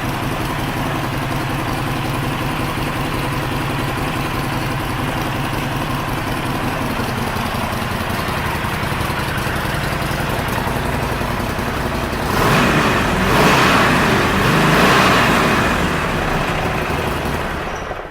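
2015 Harley-Davidson Sportster 48's air-cooled 1200 cc V-twin idling with a deep, loping rumble through an exhaust that may have its baffles drilled out. About two-thirds of the way through the throttle is blipped, about three revs, then the engine is shut off near the end.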